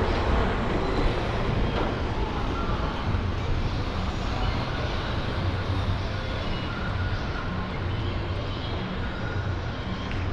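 Steady city street traffic: passing vehicles' engines and tyre noise, with a low engine hum that swells and fades several times.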